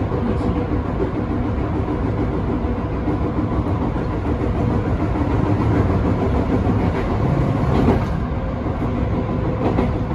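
Electric train running along the track, heard from on board: a steady rumble of wheels on rail with a faint steady hum. A short clack comes about eight seconds in.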